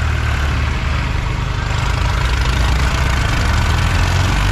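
A heavy diesel farm engine running steadily at a constant speed, its deep drone and noise holding level throughout.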